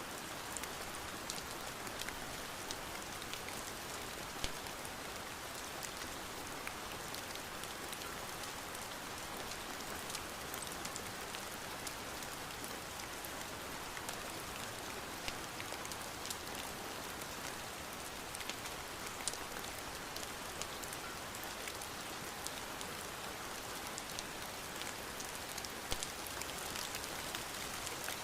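Steady rain falling and tapping on a surface, an even hiss sprinkled with scattered sharp ticks and pops.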